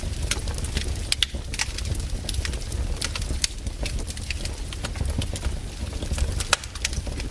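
Wood campfire burning, crackling with irregular sharp pops over a low steady rumble.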